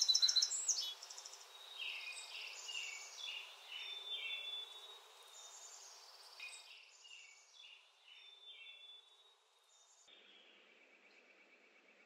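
Birds chirping and trilling: a run of high, rapidly pulsed calls, loudest at the start and growing fainter toward the end.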